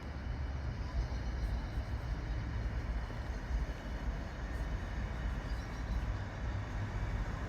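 A train running past, a steady low rumble.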